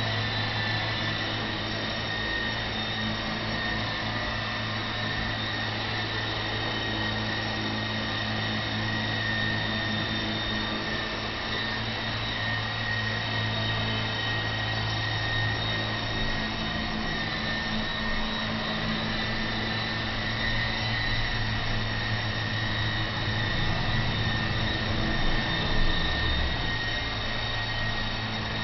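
Radio-controlled model helicopter running steadily, its rotor beating low under a high, even motor-and-gear whine. It swells briefly near the end.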